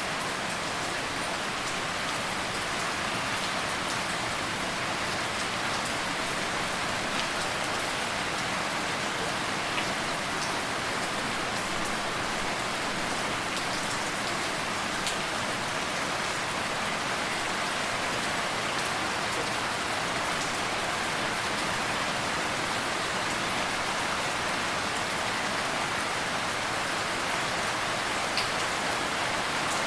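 Steady rainfall, a dense even hiss of rain on a surface with occasional distinct drops ticking through it.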